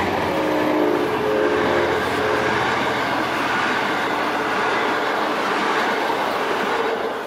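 V/Line N class diesel locomotive passing close by with its engine running, followed by its passenger carriages rolling past with steady wheel-on-rail noise. The sound starts to fade near the end.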